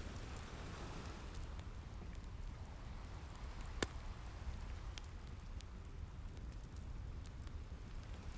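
Wood fire crackling with scattered sharp pops, one louder pop about four seconds in, over a low steady rumble and a soft wash of ocean waves that swells near the start.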